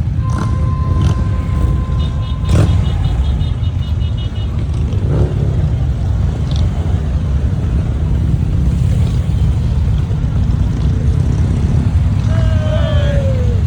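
Motorcycle engines running with a steady low rumble, with a horn sounding for about two seconds near the start.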